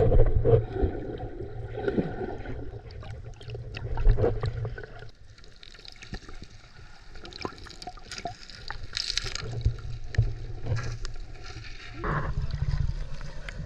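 Water splashing and sloshing, with uneven bursts that are loudest at the start, about four seconds in, and again near the end.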